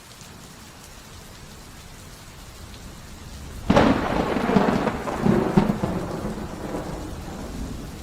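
Steady rain with a sharp thunderclap about four seconds in, rumbling on with a second burst and slowly fading.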